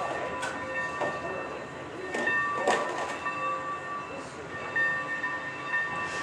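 A train moving on the rails: a running rumble with thin, high, steady tones that come and go and scattered sharp clicks.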